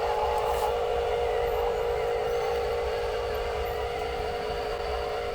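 Small electric motor and plastic gearbox of a radio-controlled toy truck running with a steady whine.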